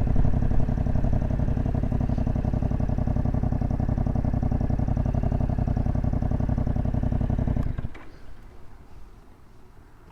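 Motorcycle engine idling with a steady, even pulsing beat, then switched off near the end, the sound cutting out abruptly.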